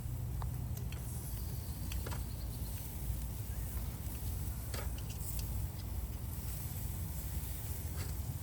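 Skewers of meat cooking over a charcoal grill: scattered sharp pops and crackles over a steady low rumble.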